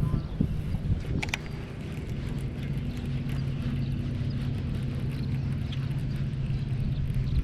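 A boat motor running at a steady low hum, with a couple of sharp knocks about a second in.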